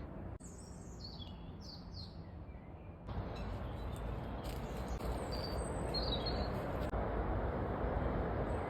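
Wild birds chirping in short, high calls, a few early on and a few more around the middle. Over them is a steady background hiss that gets louder about three seconds in.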